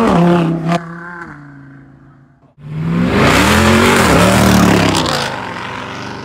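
Car engines revving in quick cut-together clips. First an engine holds a steady note and fades away. Then, about two and a half seconds in, a louder engine revs up and down over a loud rushing noise.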